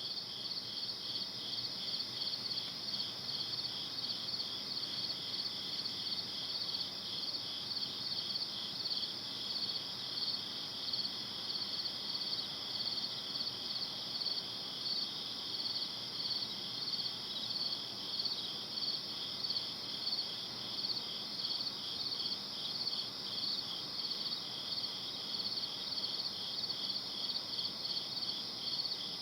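Crickets chirping steadily at night: two high-pitched voices overlap, each pulsing in an even rhythm of a few chirps a second, over a faint background hiss.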